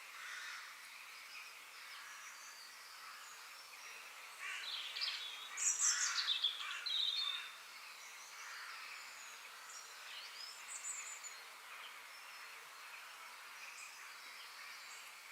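Forest ambience of many birds chirping and singing over a steady high background hiss, with one nearer bird singing a louder burst of fast, high chirps and trills for about three seconds near the middle.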